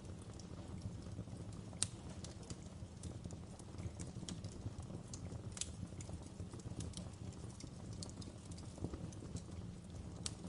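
Wood log fire in a fireplace crackling: irregular sharp pops and snaps, three louder ones about two seconds in, midway and near the end, over a steady low rumble of flame.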